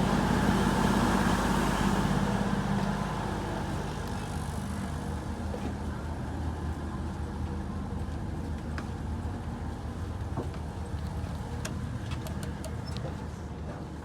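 Diesel train engine running with a steady low hum, louder for the first few seconds and then easing to a quieter, even drone, with a few faint clicks later.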